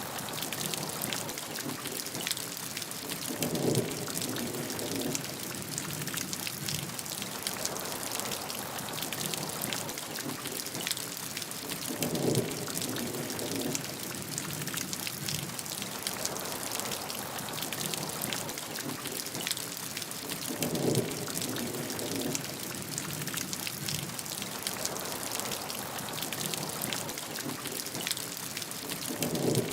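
Steady rainfall, a dense hiss of drops pattering on a surface, with a short louder splashing burst about every nine seconds, four times in all.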